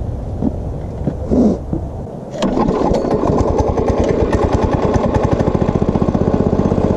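Small go-kart engine briefly faltering about two seconds in, then catching again abruptly and running with a rapid, even beat. The engine keeps dying and falling on its face, a fault not yet found.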